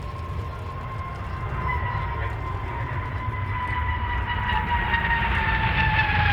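Jet engines of L-15 advanced jet trainers approaching in display flight: a whining tone that slowly falls in pitch over a low rumble, growing steadily louder.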